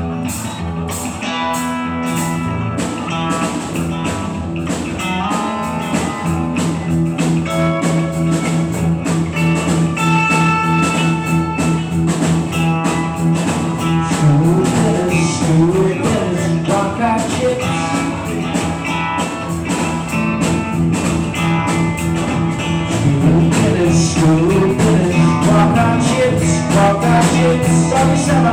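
Band playing a blues-rock improvisation: guitar over a steady bass note, with drums keeping time.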